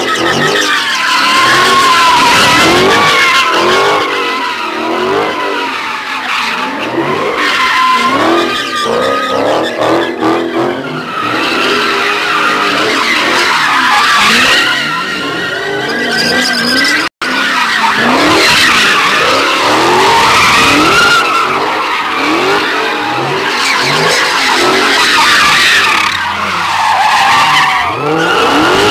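Tires squealing continuously under heavy V8 engine revving, rising and falling as a Dodge Hellcat and a 392 Hemi car do burnouts and drift. The sound drops out briefly about seventeen seconds in.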